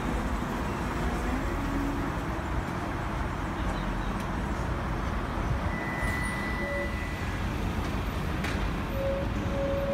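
Docklands Light Railway train running past, a steady rumble of wheels and motors, with a brief high whine about six seconds in.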